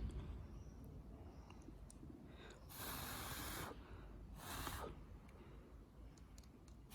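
Two short breathy hisses of a person's breath, the first about a second long and the second shorter, about a second and a half apart.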